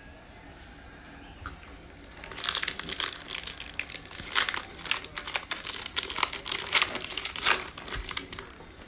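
Trading-card pack wrapper being torn open and crinkled by hand. It starts about two seconds in as a dense run of sharp crackles and stops shortly before the end.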